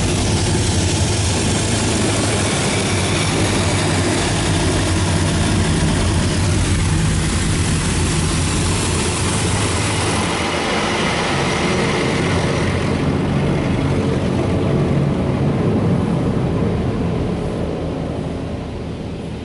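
Touchless automatic car wash spraying water and soap over the car, heard from inside the cabin as a loud, steady hiss over a low machine hum. The spray hiss thins out about two-thirds of the way through, and the whole noise dies down near the end.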